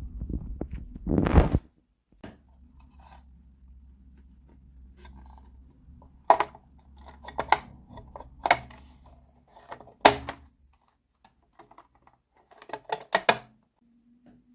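Hands handling miniature plastic toy kitchen pieces and packaging. There is rustling at first, then single sharp clicks and taps every second or so, and a quick cluster of clicks near the end, over a faint low hum.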